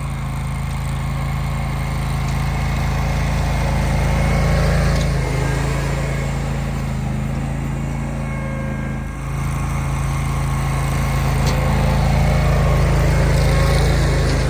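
Garden tractor engine running steadily, with a brief dip about nine seconds in.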